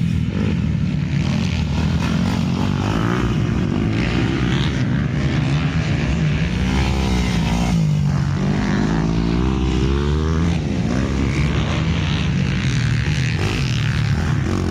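Motocross dirt bike engines running on the track, the revs rising and falling as the bikes accelerate and back off, most plainly in the middle.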